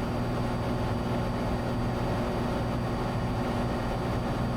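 Cessna 182T's six-cylinder Lycoming IO-540 engine and propeller droning steadily in cruise flight, a constant low hum with a thin, steady high tone above it.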